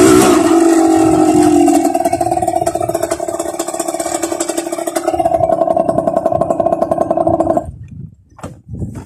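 Dirt bike engine running at a steady pitch, then stopping abruptly about seven and a half seconds in.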